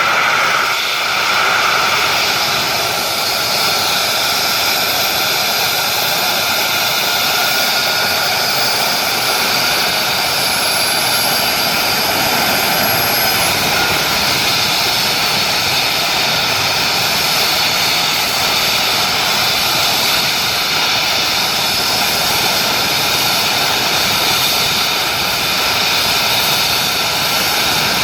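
Airbus EC135 helicopter's twin turboshaft engines running during start-up: a loud, steady turbine rush with high whining tones, and a faint high whine slowly rising between about three and thirteen seconds in.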